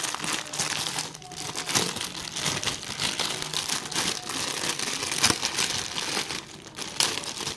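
Plastic lollipop wrappers and packaging being crinkled and handled close up: a dense, continuous crinkling crackle with frequent sharp snaps.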